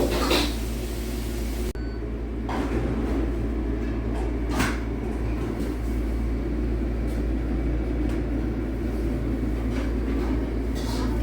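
Steady low rumble of a vehicle driving, heard from inside the cabin, with a few short knocks or rattles now and then.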